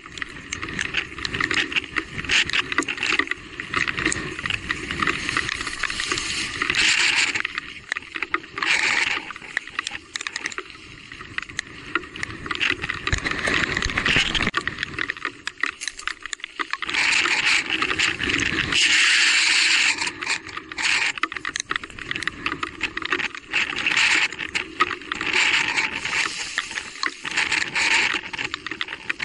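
E-bike riding over a rough, wet trail: rolling tyre and splash noise with many rattles and knocks, and surges of hiss.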